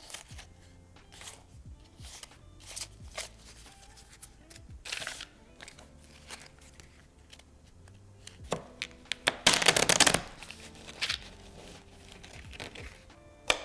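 Board game packaging and pieces being handled: a string of light clicks and taps, with a loud crinkling tear lasting about a second, some nine seconds in. Soft background music plays underneath.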